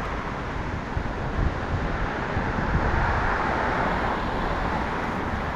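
Wind buffeting the microphone while riding a bicycle, a steady rushing noise with a fluttering low rumble.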